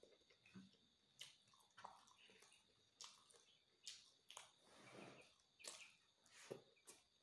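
Close-up, quiet mouth sounds of someone eating rice by hand: chewing with short wet lip smacks, about one every second. A faint, steady high whine runs underneath.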